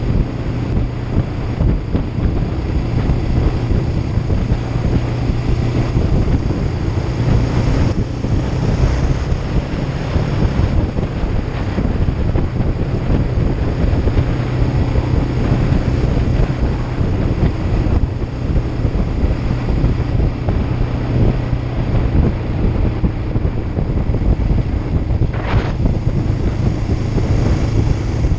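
Heavy wind noise buffeting the microphone over a Kawasaki Ninja 500's parallel-twin engine running at a steady pitch while riding.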